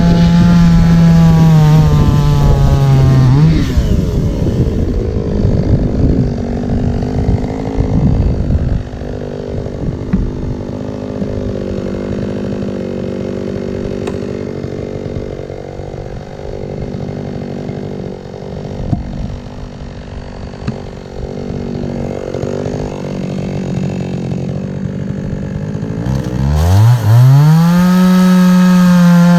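Chainsaw cutting firewood logs: the two-stroke engine runs at full throttle for the first few seconds, then drops to a lower, quieter running for about twenty seconds, and revs up again near the end.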